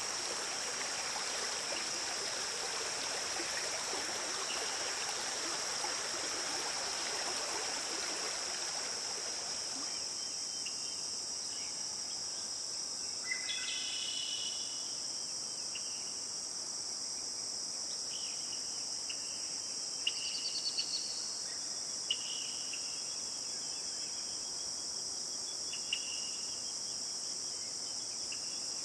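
Forest ambience: a steady, high-pitched chorus of crickets or similar insects, with running stream water that fades out over the first third. After that, scattered short bird chirps and calls, including a quick trill about two-thirds of the way through.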